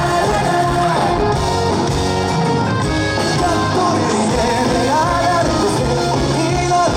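Live rock band performance with drums, guitars and bass under a sung vocal melody.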